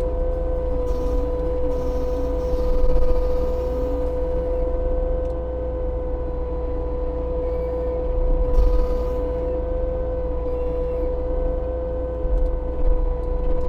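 Case TV450 compact track loader's diesel engine working under load, with a steady high whine from its spinning hydraulic mulching head. Brief crunches of wood being chewed come about a second in and again past the middle.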